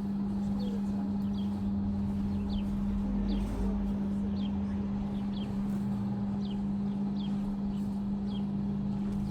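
A bird chirping over and over, one short high falling chirp about once a second, over a loud steady low hum.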